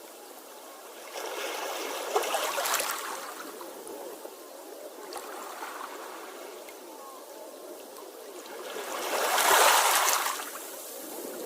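Sea waves washing and fizzing on the shore: a steady wash with one surge about a second in and a louder one near the end.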